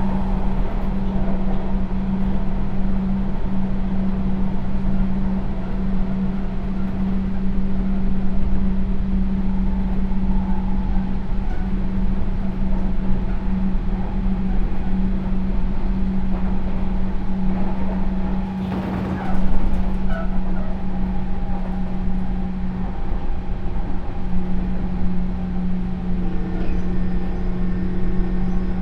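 Running sound inside a Sotetsu New 7000 series electric train car with a Hitachi GTO-thyristor VVVF inverter: a steady low motor and gear hum over wheel and track noise. About 19 seconds in a brief louder rush of noise passes, and near the end a few higher steady inverter tones join the hum.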